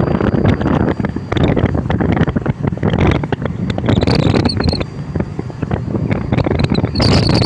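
Strong wind buffeting the microphone in gusts that surge about once a second, over the low running noise of a tugboat.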